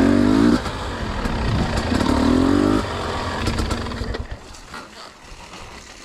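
Dirt bike engine revving up twice, its pitch rising each time, then fading away.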